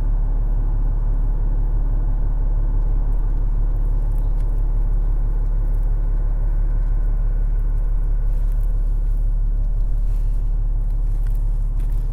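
Steady deep rumble of wind buffeting the microphone.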